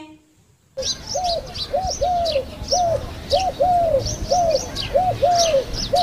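A dove cooing: a steady series of short, rising-then-falling coos, about two a second, starting about a second in. Small birds chirp faintly in the background.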